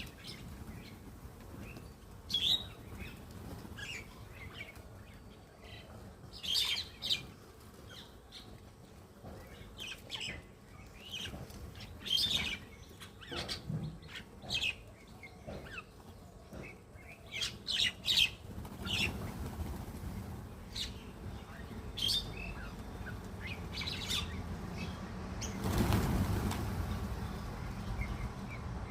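Mynas making short, scattered chirps and calls, with wings flapping. A broad rush of noise builds late and is loudest near the end.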